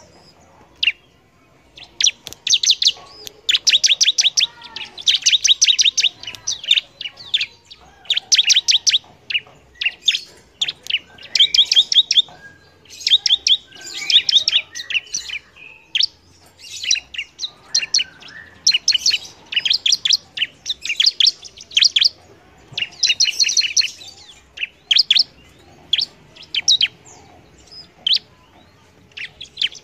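A ciblek, a prinia, singing in a long chattering series: bursts of fast, high, repeated notes, each a second or two long with short pauses between.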